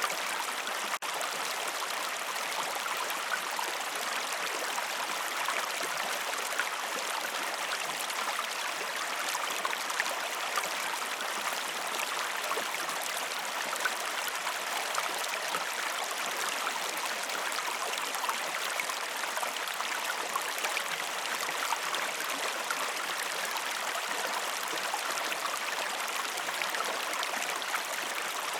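River water flowing steadily, an even rushing and babbling with nothing low in it. There is a very brief dropout about a second in.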